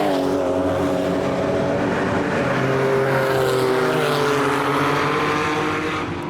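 Race car engines passing by at speed, their pitch falling as they go past, the sound fading out near the end.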